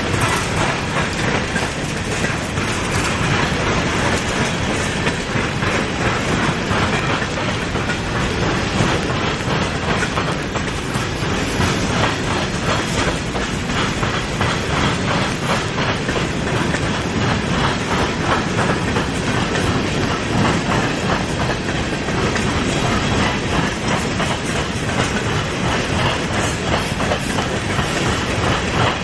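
A freight train of empty covered-hopper grain cars rolling past, its steel wheels clattering steadily over the rails in a continuous run of clicks.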